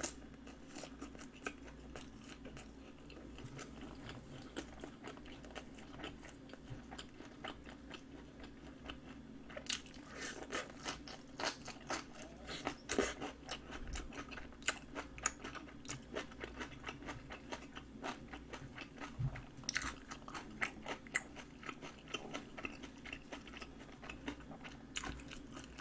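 Close-up chewing and crunching of napa cabbage kimchi, with irregular crisp crunches that come thickest about ten seconds in and again about twenty seconds in.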